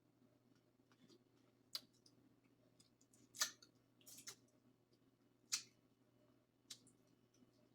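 Eating sounds: about five short, wet clicks and smacks of mouth and sauce-covered food, spaced roughly a second apart, the loudest a little past three seconds in and again past five seconds.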